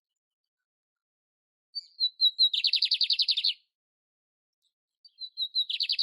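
Canary (canário-império) singing two short phrases. Each phrase opens with a few separate high notes and runs into a fast trill of about ten notes a second, lasting about a second. The second phrase starts about three seconds after the first.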